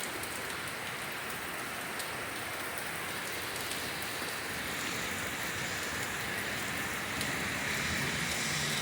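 Heavy downpour: a steady hiss of rain with scattered sharp drop impacts, growing slightly louder near the end.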